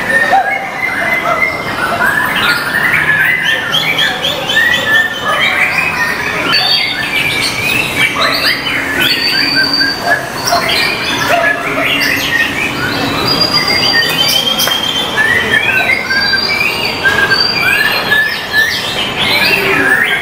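White-rumped shama (murai batu) singing without a break: a dense, varied run of loud whistles, rising and falling slurs and rapid chirps.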